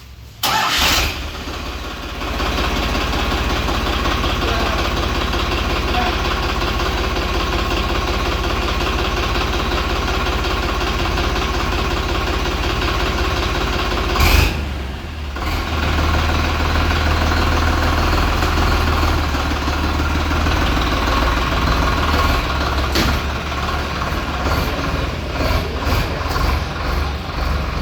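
Powertrac Euro 55 tractor's diesel engine starting abruptly, then running steadily. About halfway through there is a sharp knock and the engine note changes to a louder, deeper hum, growing more uneven near the end.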